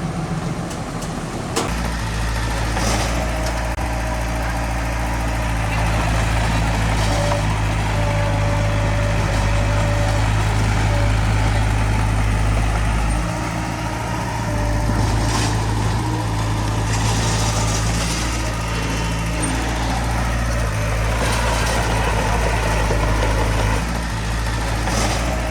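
Heavy diesel earthmoving machinery running steadily, with a single sharp knock about a second and a half in as a deep, steady engine note comes in; the engine note dips briefly a couple of times.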